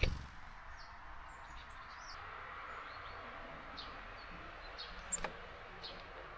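Small songbirds at a garden feeder giving short, high chirps over a steady hiss of rain. A sharp knock sounds at the start and another about five seconds in.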